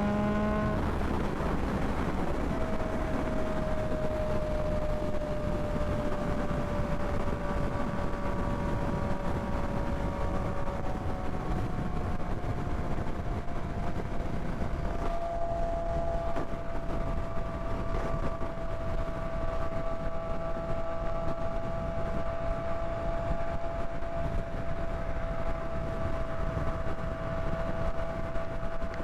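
Yamaha MT-09's three-cylinder engine rising in pitch for about a second as the bike accelerates, then holding a steady note at highway cruising speed over a constant rushing noise.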